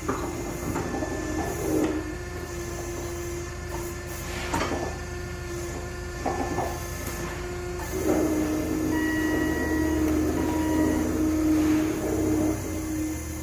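Firewood production machinery running: a steady motor hum and whine, with a few knocks in the middle and a change in pitch and level about eight seconds in.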